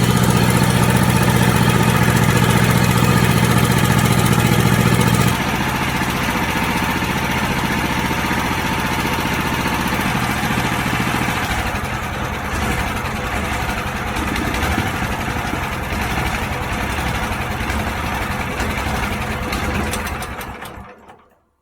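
Wood chipper's engine running steadily. It drops to a lower, quieter idle about five seconds in, cooling down, then is switched off and winds down near the end.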